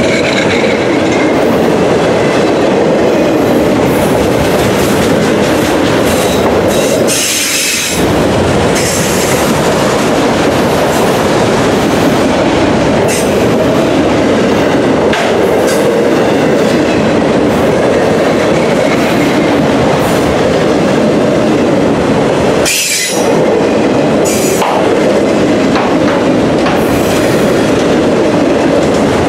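Autorack freight cars rolling past at speed close by: a loud, continuous rumble and clatter of steel wheels on the rails. Twice, about 7 and 23 seconds in, the low rumble briefly dips and a sharp high-pitched sound comes through.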